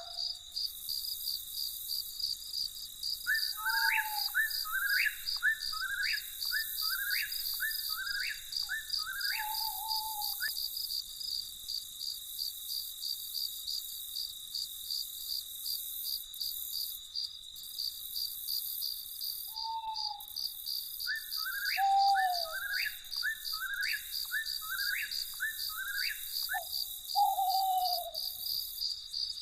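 Crickets chirping in a steady, fast-pulsing trill, with a bird calling in two bouts, once a few seconds in and again past the middle: a quick series of about seven short rising notes together with a few lower falling whistled notes.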